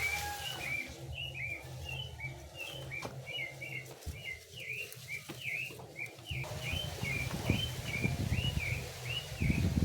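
A bird calling a steady run of short chirping notes, about two a second, over a low steady rumble.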